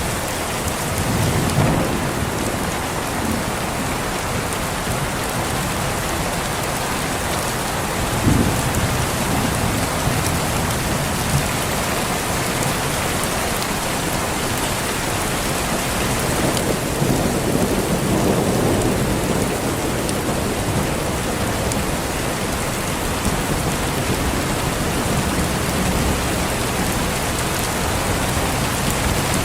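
Steady heavy rain with low thunder rumbles swelling through it, the longest rumble rolling a little past halfway.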